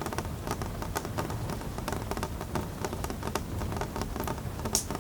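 Steady rain falling, with many small drops tapping irregularly on a hard surface.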